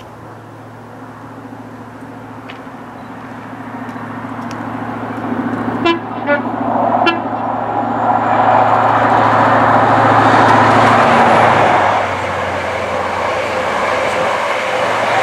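A diesel High Speed Train drawing closer at speed with a steady engine drone, giving two short horn toots about a second apart, around six and seven seconds in. The rush of wheels and air then swells as the coaches pass close by, easing a little after about twelve seconds.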